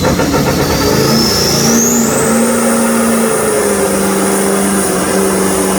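Diesel semi truck engine running hard under throttle, its steady drone joined about a second in by a high whine that climbs quickly and then holds.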